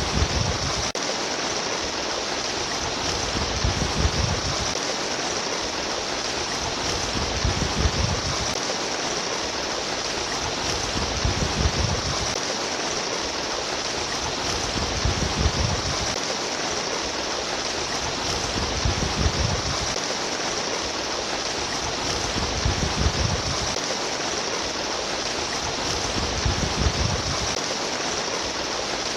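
Running water rushing and splashing steadily, like a stream, with a low surge swelling and fading about every four seconds.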